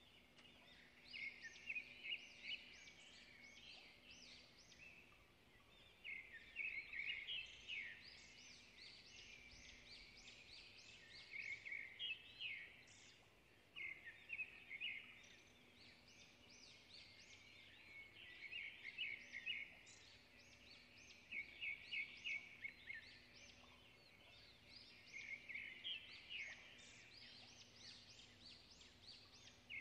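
A small bird chirping in the background, in bursts of quick high trills that come back every few seconds.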